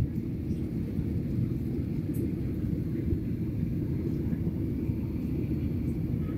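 Airliner cabin noise during the climb after takeoff: a steady low rumble of the jet engines and airflow, heard from inside the cabin.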